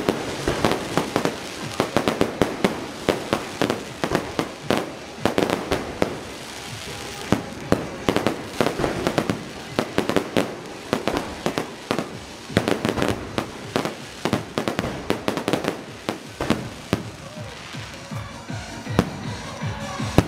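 Aerial fireworks display: a rapid, continuous string of shell bursts, bangs and crackling reports, thinning out near the end.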